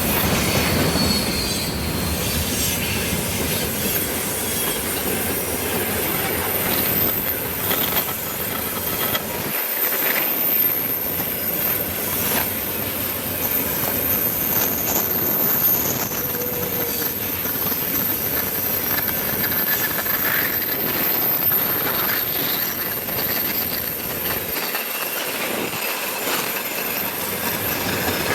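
Freight train wagons rolling past, steel wheels on rail with a steady high-pitched squeal and irregular clicks over the rail joints.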